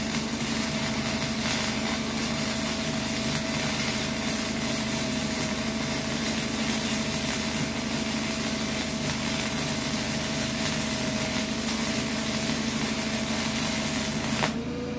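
Small 120-volt wire-feed welder's arc crackling steadily, like frying bacon, as it lays a bead on bus floor sheet steel, with a steady hum under it. It cuts off abruptly near the end as the trigger is released.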